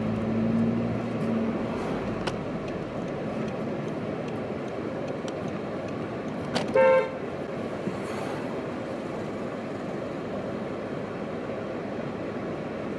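Steady street traffic noise, with one short car horn toot about seven seconds in.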